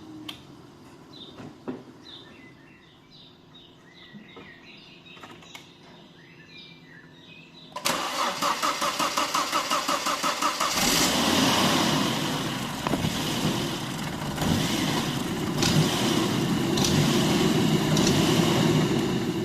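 Faint bird chirps, then about eight seconds in a Volvo S60's starter cranks in quick, even pulses and the engine catches and runs at an idle that rises and falls. The surging idle and misfire come from a loose throttle body.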